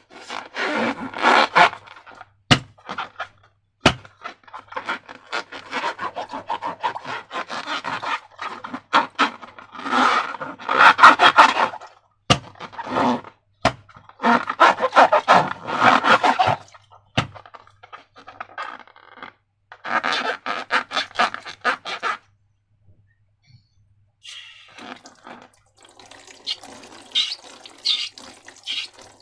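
Wet, sticky slime squelching and crackling in repeated bouts as it is squeezed and worked by hand, with a few sharp clicks in between. Near the end there is a short pause, then softer, higher crackling.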